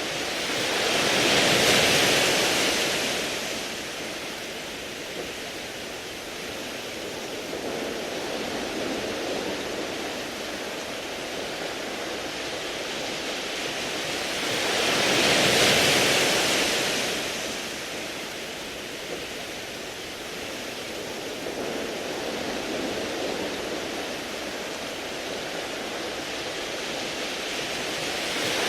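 Sea waves breaking and washing over a beach of smooth round pebbles. Two larger waves surge in about 14 seconds apart, one shortly after the start and one halfway through, with another building at the very end and a steady wash of surf between.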